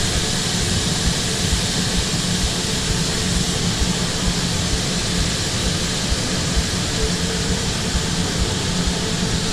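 Steady running noise of food truck kitchen equipment: an even hiss with a low hum underneath, unchanging throughout.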